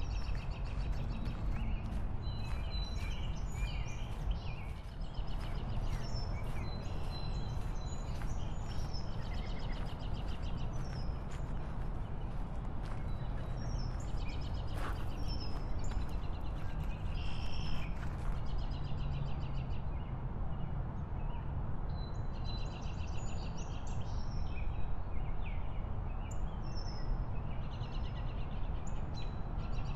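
Birds chirping and calling in short trilled phrases, again and again, over a steady low rumble.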